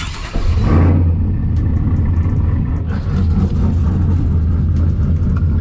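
Cammed pickup truck engine running steadily with a deep, loud rumble. A brief louder burst comes in the first second.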